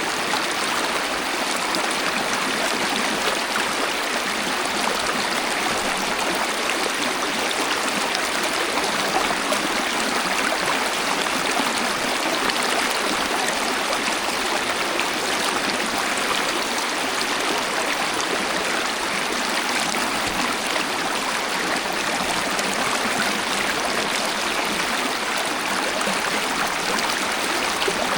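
Waterfall and flowing stream water rushing in a steady, even hiss with no breaks, its sound sitting mainly in the middle and upper range with little deep rumble.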